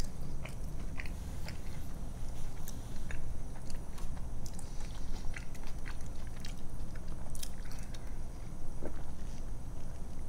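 Close-miked chewing of a mouthful of fried fish sandwich: steady mouth noise with many small, irregular clicks.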